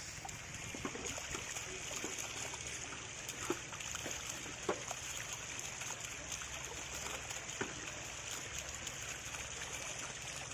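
Muddy water splashing and trickling around a walk-behind hand tractor working in a flooded rice paddy, with scattered sharp clicks and knocks, the loudest about three and a half and four and a half seconds in, over a steady low hum.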